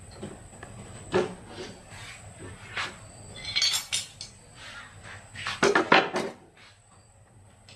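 Metal tools and engine parts being handled during a repair: scattered clinks, knocks and scraping, with a busier clatter near the middle and the loudest bout of clattering about six seconds in.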